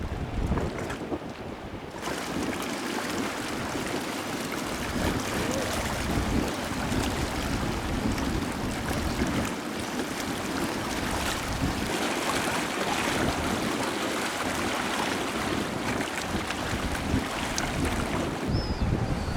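Wind buffeting the microphone with a gusty rumble, over a steady rushing hiss that comes in about two seconds in and drops away just before the end.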